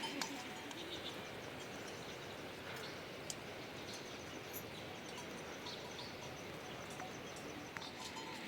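Steady outdoor background hiss with a few faint, scattered high chirps and ticks.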